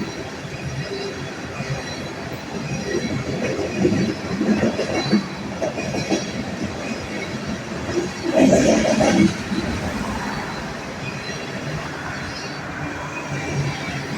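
Freight train of tank cars rolling past, its steel wheels clattering over the rail joints with a faint squeal. The clatter grows louder in bunches about four seconds in and again around eight to nine seconds, the loudest stretch.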